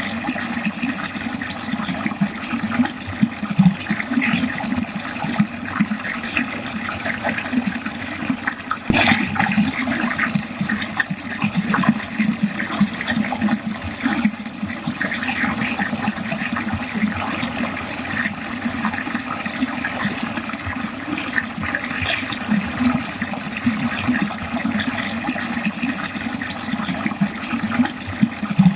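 Water draining steadily down a drain, a continuous rushing flow with an uneven, bubbling texture.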